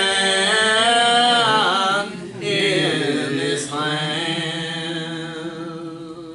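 Church singing of a gospel song: long held sung notes, a short break about two seconds in, then another long phrase that grows quieter toward the end.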